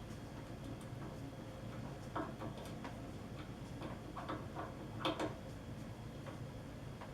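Irregular light clicks and knocks from handling and adjusting the drill press head, over a low steady hum. The loudest is a double knock about five seconds in.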